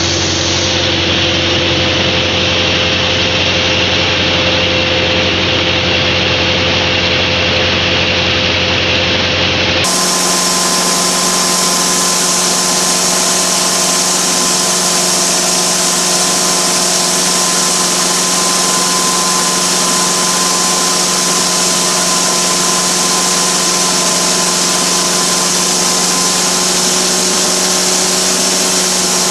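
Rice milling machine running steadily, a loud continuous mechanical drone with a steady hum. About ten seconds in it switches abruptly to a brighter, hissier run of the same steady machine noise.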